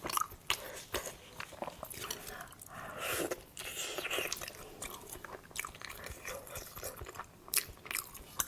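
Close-miked eating: chewing and biting with irregular crunchy clicks, a couple of sharper crunches standing out.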